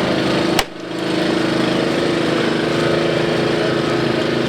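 A motor running steadily, with a sharp click about half a second in, after which the sound briefly dips and then comes back up.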